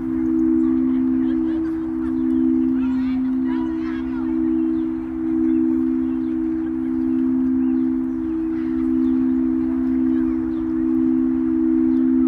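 Two singing bowls held ringing together, rimmed with a stick, giving two steady tones close in pitch that slowly swell and ease.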